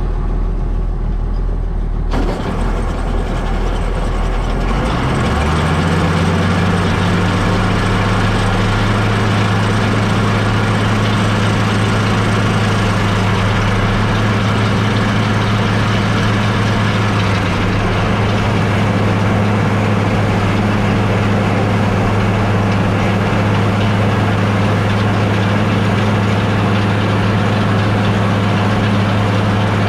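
International 1086 tractor's six-cylinder diesel engine running, its speed rising about five seconds in and then holding steady at working speed.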